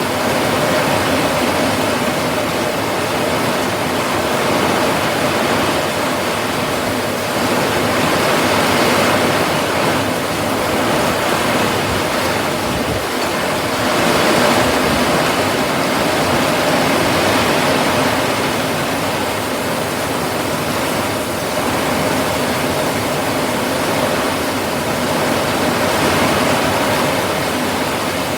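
Steady rain falling, an even hiss that swells slightly every few seconds.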